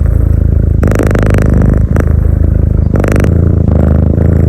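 Domestic cat purring loudly, close up: a steady low rumble that swells and eases with each breath.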